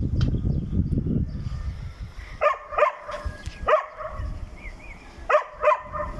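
A dog barking five short times, mostly in quick pairs, after a low rumbling noise in the first two seconds.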